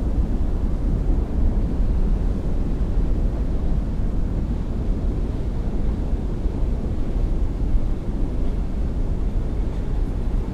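Boat outboard motor running steadily, a low rumble mixed with wind buffeting the microphone.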